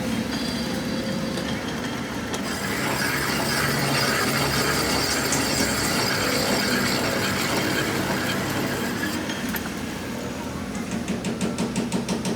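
An engine running steadily with a low hum. Near the end its sound turns to a rapid, even pulsing.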